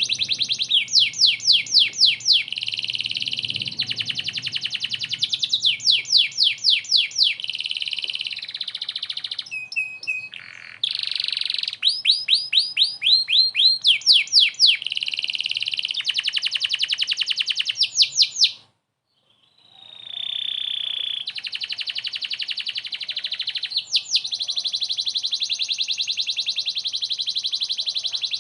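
Domestic canary singing vigorously in long, fast trills of rapidly repeated downward-sweeping notes, cutting off briefly for about a second around two-thirds of the way through before resuming in a dense rolling trill.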